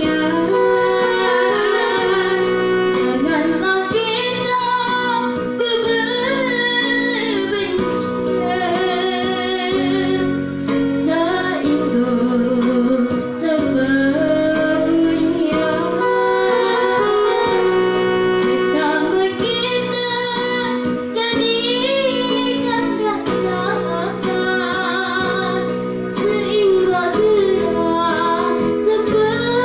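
A young girl singing a song with a wavering vibrato over instrumental accompaniment.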